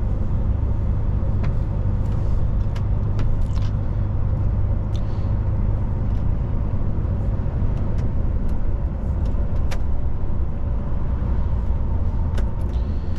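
DAF XF 480 truck running at road speed: a steady low engine and road rumble, with scattered sharp clicks over it.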